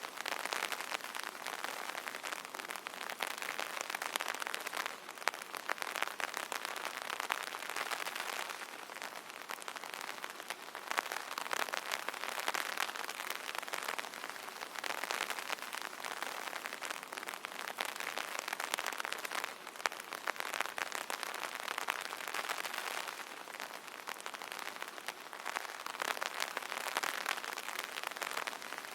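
Rain pattering on an umbrella canopy, a dense stream of fine drop ticks that swells and eases every few seconds.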